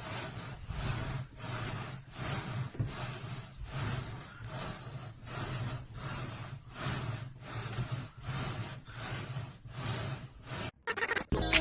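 Rhythmic rubbing strokes, about one and a half a second, from someone working a vertical climber exercise machine. Music comes in near the end.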